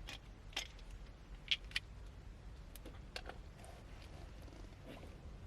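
A few light clicks and taps of small objects being handled, over a low steady rumble.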